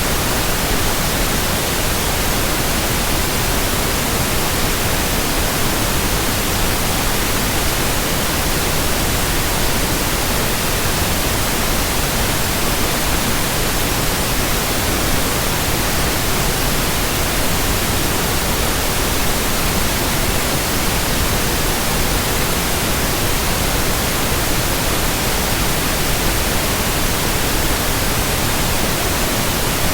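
Steady white-noise hiss, spread evenly from deep to very high pitches and never changing, with no rhythmic swish or hum in it.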